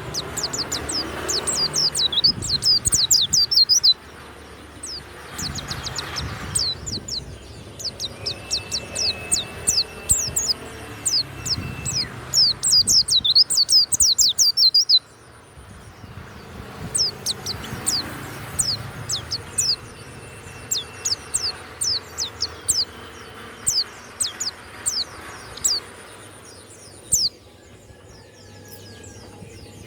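White-eye (pleci) singing a fast, high twittering song of rapid chirps, loud in long bursts at the start and again in the middle, then softer and more broken after about halfway.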